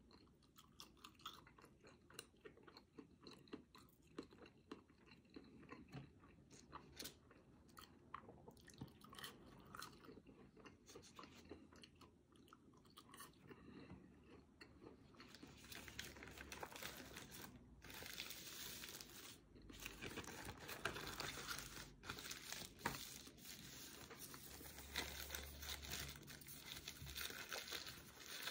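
Close-miked chewing and crunching of French fries, with small sharp mouth clicks. From about halfway through, denser crinkling and rustling takes over as the red fry carton is handled and flattened.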